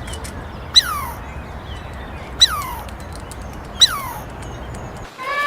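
A dog's high-pitched cries, three short calls each falling sharply in pitch, spaced about a second and a half apart.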